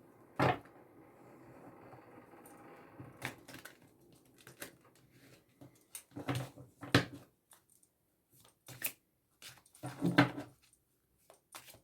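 Oracle cards being shuffled by hand: a string of irregular taps, slaps and riffles of the card deck.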